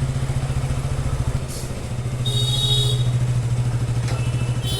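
Motorcycle engine running steadily under way, a low even throb. A short high-pitched beep sounds about halfway through.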